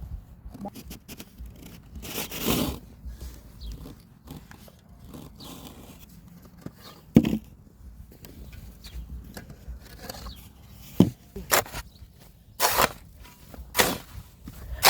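Snow shovel scraping and scooping snow in irregular strokes, a longer scrape about two seconds in and quicker, sharper strokes near the end.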